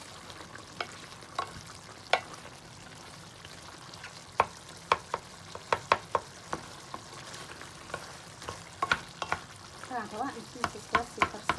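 Beef strips and tomato cooking in a pan with a steady sizzle, while a wooden spatula stirs them, with many sharp, irregular clacks of the spatula against the pan.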